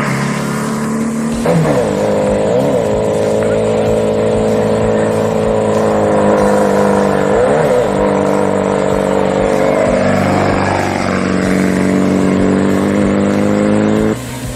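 A vehicle engine running steadily and loud, with a few brief rises and falls in pitch; it cuts off sharply about fourteen seconds in.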